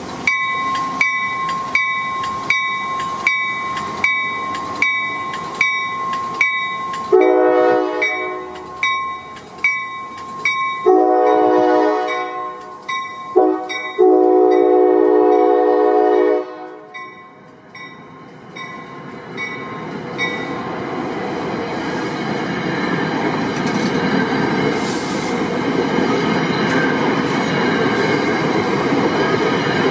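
Railroad grade-crossing bell ringing steadily. About seven seconds in, an NJ Transit train's horn sounds the crossing signal: long, long, short, long. After the horn, the train's wheels on the rails build to a steady rumble as the cars roll through the crossing.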